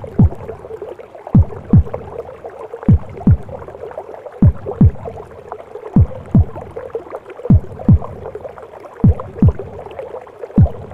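A mother's heartbeat in the womb, a slow, even lub-dub about once every one and a half seconds, each beat a pair of deep thuds. Underneath runs a steady whooshing womb noise.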